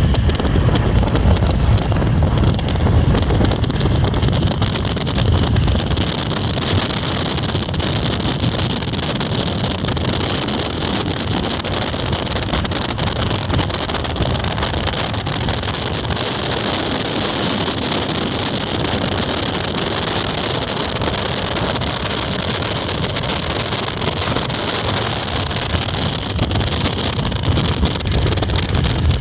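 Strong wind blowing and buffeting the microphone. A heavy low rumble lasts the first several seconds, then gives way to a steadier rushing hiss.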